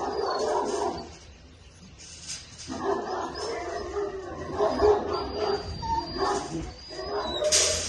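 Central Asian Shepherd puppy whining and yelping in an irregular run of short, high calls, with a brief lull about a second in.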